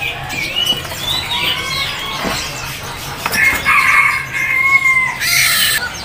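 Caged birds calling at a bird market, with a long held call of about two seconds starting a little past the middle, followed by a brief rustling hiss.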